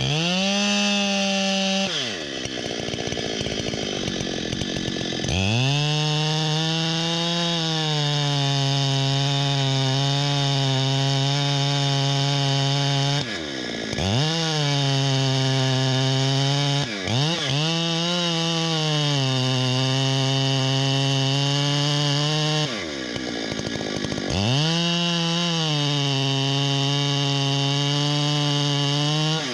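Chainsaw bucking wood at full throttle in four long cuts. Its engine pitch drops and holds steady as the chain bites and pulls under load, then swings up briefly between cuts.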